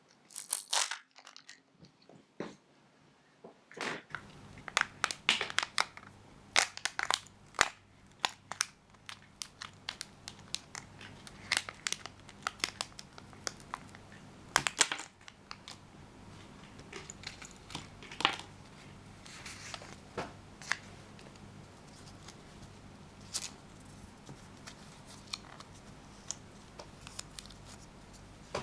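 Kinder Joy egg's foil wrapper crinkling and tearing as it is unwrapped by hand: many sharp, irregular crackles, busiest in the first half, then sparser.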